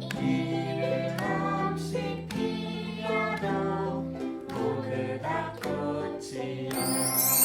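A ukulele ensemble playing a song, with chords strummed in a steady rhythm. A bright, shimmering high sound joins near the end.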